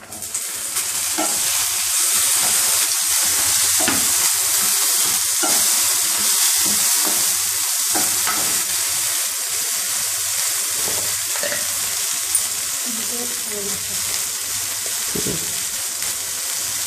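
Chopped tomatoes and onions sizzling in hot oil in a non-stick frying pan, a steady hiss, with occasional scrapes as a wooden spatula stirs them.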